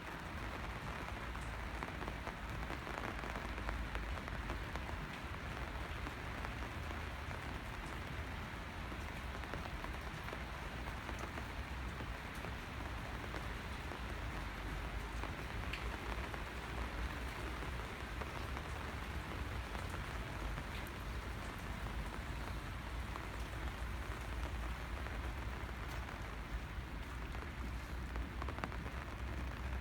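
Steady rain falling and pattering on surfaces, with faint scattered drop ticks over a low, steady rumble underneath.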